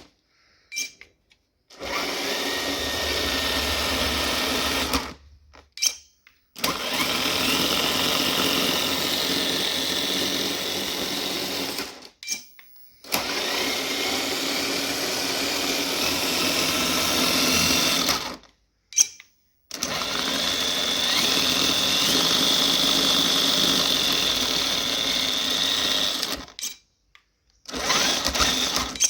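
A small electric motor running steadily in a series of short runs of a few seconds each, broken by abrupt cuts. Now and then a faint whine rises in pitch.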